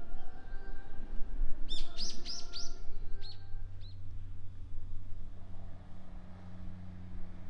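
A small bird chirping: a quick run of about five sharp, high chirps about two seconds in, then two single chirps. A steady low hum sets in about three seconds in.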